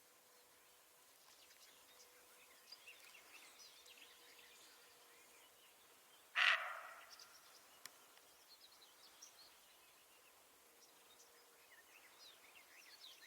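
Faint outdoor ambience with small birds chirping here and there. About six seconds in comes one short, sudden, much louder sound that fades within half a second.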